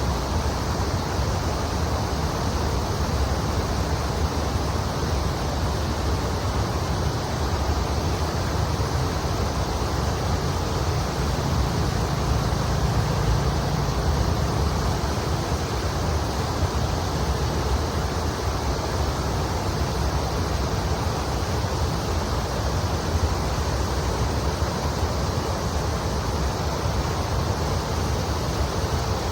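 Kamo River water flowing over its shallow bed: a steady, even rush of running water.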